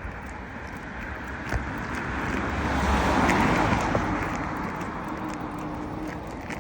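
A road vehicle driving past, its noise swelling to a peak about three seconds in and then fading away.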